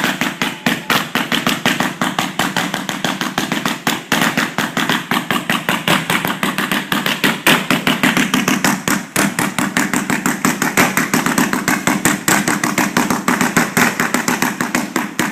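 Rapid fireworks barrage heard from close to the launch site: sharp reports following one another about six times a second without a break, stopping suddenly at the end.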